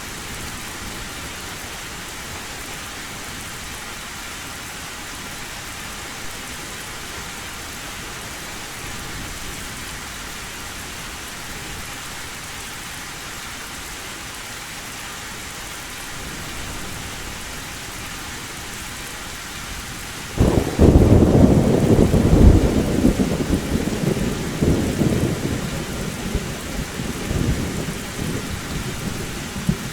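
Heavy rain falling steadily on a tin roof. About twenty seconds in, thunder cracks suddenly and loudly, then rumbles on and slowly fades.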